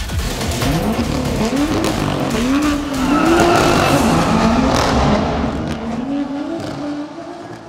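2016 BMW M2's turbocharged straight-six, breathing through an M Performance exhaust, revving hard and rising and falling in pitch several times, with tyres squealing as they spin in a smoky burnout. The sound fades near the end as the car drives away.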